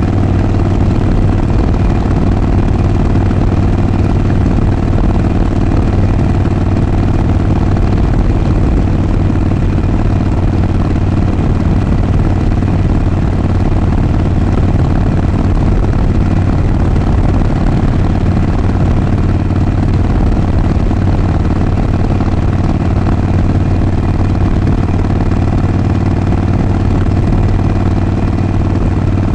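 Harley-Davidson Sportster 48's 1200 cc air-cooled V-twin running steadily through its exhaust, a loud, even low note with no revving.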